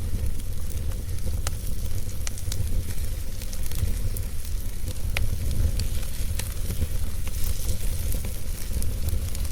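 Wood fire burning, with a steady hiss and a low rumble broken by irregular sharp crackles and pops.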